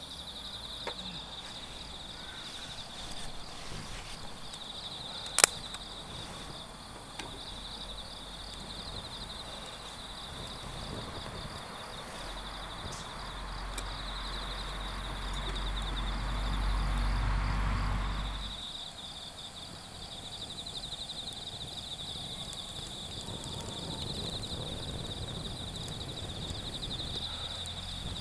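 Night insects keep up a steady, pulsing high trill over a crackling wood fire, with one sharp pop about five seconds in. From about twelve seconds a low rumble swells, then cuts off suddenly a little after eighteen seconds.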